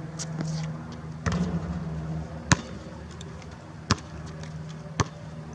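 Basketball bouncing on an outdoor court: four sharp bounces spaced roughly a second apart, over a faint steady low hum.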